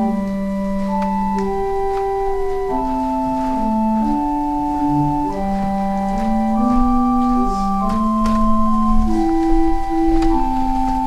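Organ playing slow music for the offering: sustained chords in several parts over a moving bass, the notes changing about once a second.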